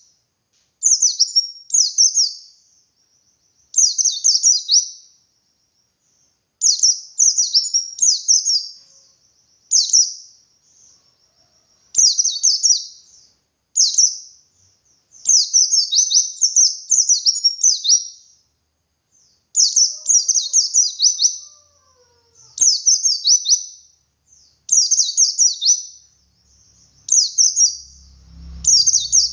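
A white-eye (pleci dakun) singing its long 'ngalas' song with 'wit wit' variations: bursts of quick, high, downward-slurred notes, each about a second long, repeated again and again with short pauses. A faint low rumble comes in near the end.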